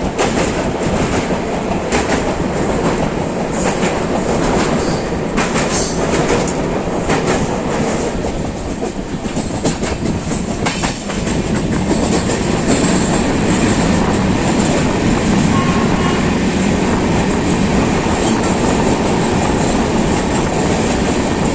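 Passenger train running along the track: a steady rumble of the coaches with scattered clicks of the wheels over rail joints.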